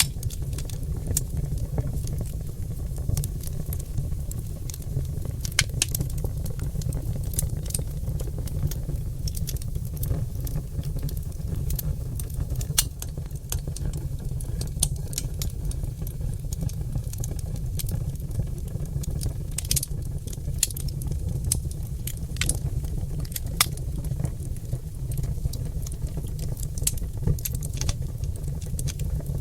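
Charred oak logs burning in a fireplace, crackling and popping irregularly, with sharp snaps scattered several times a second over a steady low rumble.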